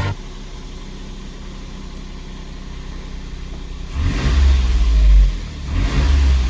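Daihatsu Hi-Max kei truck's small three-cylinder engine idling steadily, then revved up and back down twice: once about four seconds in and again near the end.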